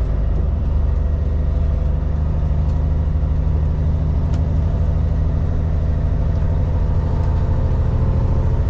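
Kenworth K200 road train's Cummins X15 diesel engine running at a steady, unchanging note.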